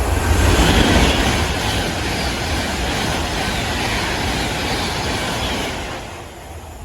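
A train passing close by: a loud rush of wheel and rail noise that swells in the first second, holds steady, and dies away near the end.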